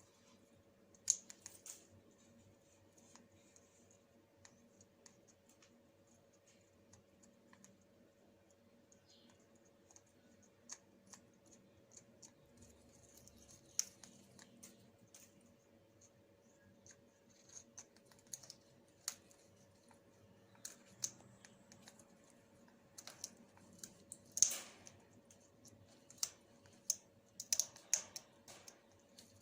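African grey parrot nibbling and tearing neem leaves with its beak: scattered small clicks and crackles, more frequent in the second half, with one longer, louder crackle a few seconds before the end.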